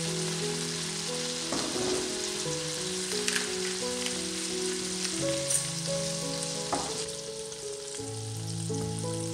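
Asparagus spears sizzling in butter and oil in a non-stick frying pan, a steady crackling hiss, with a few short clicks of utensils against the pan. Background music with held notes runs underneath.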